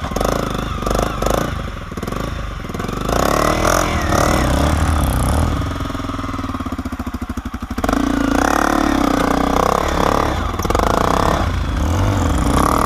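Off-road motorcycle engine revving up and down as it is ridden, with a stretch of slower, evenly pulsing low-rev running in the middle.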